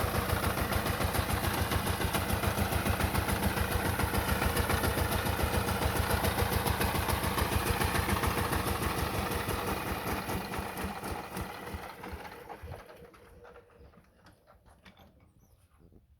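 Diesel engine running with a fast, even beat, then winding down and dying away over a few seconds. Only a few faint knocks are left near the end.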